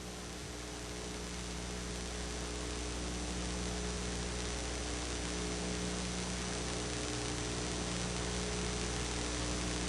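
Steady electrical hum with a layer of hiss, slowly growing a little louder.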